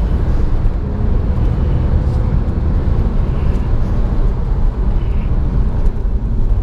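A Porsche 911 (997) Carrera's naturally aspirated flat-six engine running steadily under load on track, with road noise mixed in.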